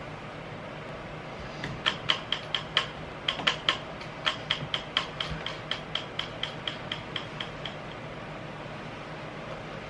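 A run of a couple dozen sharp mechanical clicks, ratchet-like, about four a second, each with a short ringing ring to it; they start a couple of seconds in, then fade and stop a little after halfway.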